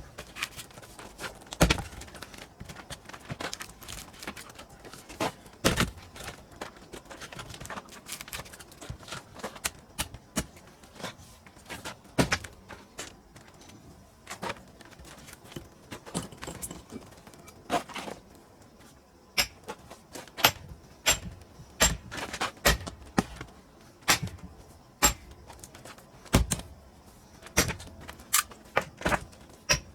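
Sharp wooden knocks and thuds from splitting pine firewood, coming at irregular intervals. In the second half they come in quicker runs of lighter clacks, like split pieces knocking together.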